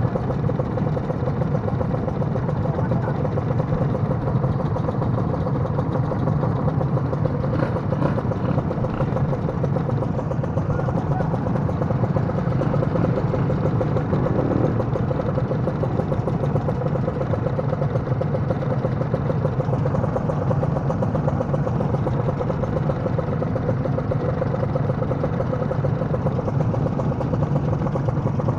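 Two-stroke single-cylinder engine of a Kawasaki KR150 motorcycle running steadily, with no marked revving.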